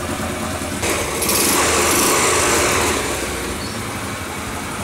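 Single-cylinder motorcycle engine in a Vespa rat-bike frame running, its exhaust freshly re-fastened to the cylinder head; it gets louder about a second in and settles back about two seconds later.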